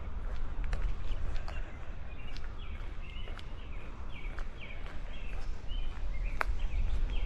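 Footsteps on pavement, a sharp step about once a second, with wind buffeting the microphone as a low rumble. Birds chirp over it in short, quickly repeated notes.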